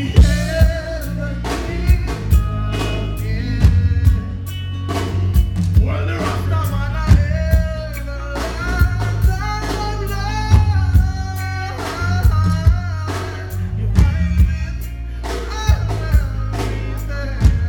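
Live reggae band playing, with a heavy bass line, drum kit and guitar under a singer's voice.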